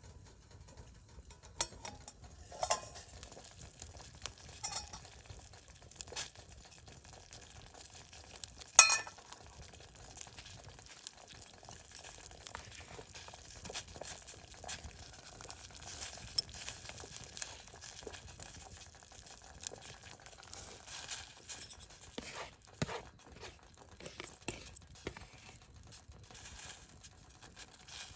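Wood fire crackling in a fire pit, with scattered sharp pops and one loud crack about nine seconds in.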